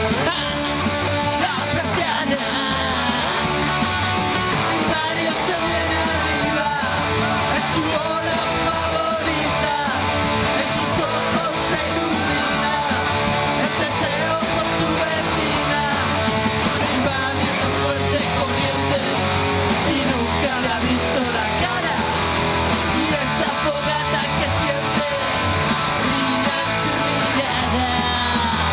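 Rock music: a band playing with guitars and a steady beat.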